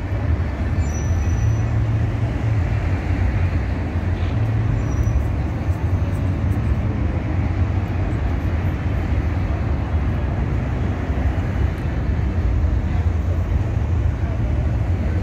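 Steady street noise of road traffic running past, a constant low rumble of engines and tyres with no single vehicle standing out.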